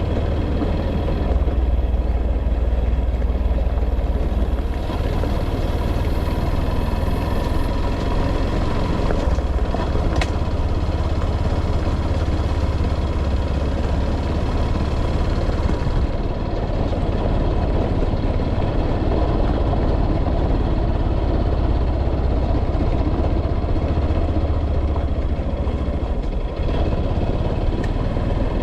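A motor vehicle running, a steady low engine and road rumble with no change in pace.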